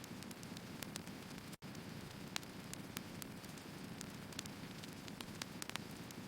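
Firewood burning in an open fire: a steady low rush with scattered sharp crackles and pops. The sound drops out for an instant about a second and a half in.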